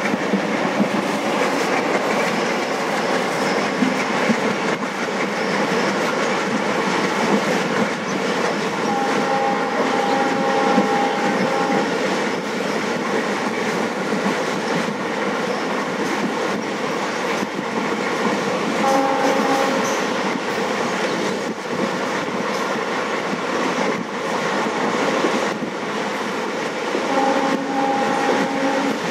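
Passenger express running at speed, with the steady noise of its wheels on the rails heard from an open coach door. The WDG3A diesel locomotive's horn sounds ahead: a long blast about nine seconds in, a short one around nineteen seconds, and another near the end.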